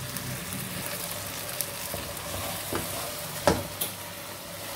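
Okra cooked in oil and spiced masala sizzling in a wok, with a few sharp knocks and clinks from the spoon and dishes against the pan. The loudest knock comes about three and a half seconds in.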